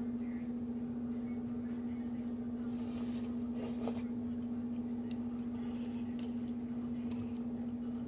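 Someone eating stir-fried noodles off-camera: two short wet mouth sounds about three seconds in, then a few light clicks, over a steady low hum.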